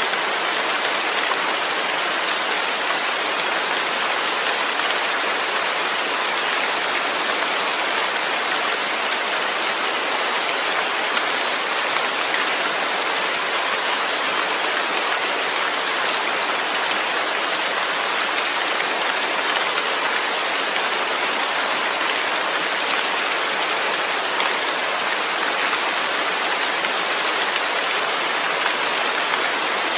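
Steady rainfall, a constant even hiss of rain on surfaces with no changes or distinct events.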